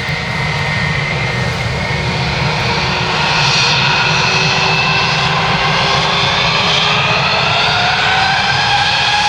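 Airbus A319 jet engines running up: a whine that rises in pitch from about three seconds in, over a steady low rumble, as the engines spool up toward take-off power.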